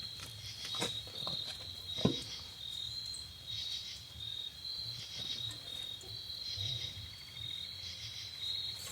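Insects chirping in a steady, evenly pulsing high trill, with a few light clicks and one sharper knock about two seconds in.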